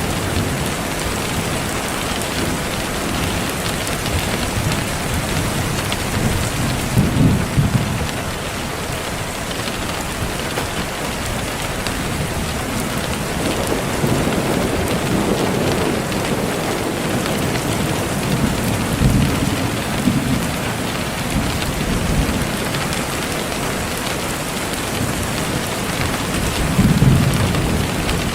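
Steady rain hiss, with low rumbles swelling up about 7, 15, 19 and 27 seconds in.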